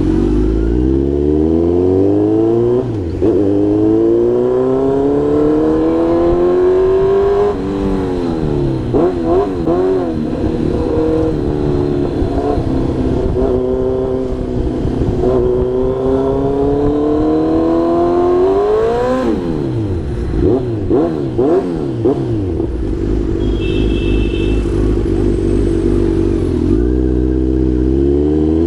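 Kawasaki Z900's 948cc inline-four engine accelerating hard through the gears, the revs climbing and dropping back at each upshift several times. About two-thirds of the way through the revs fall away with short throttle blips as the bike slows, then the engine holds steady and climbs again near the end.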